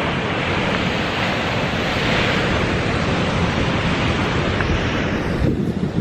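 Surf washing in below, with wind buffeting the microphone; the hiss of the wash falls away suddenly near the end, leaving low gusty rumble.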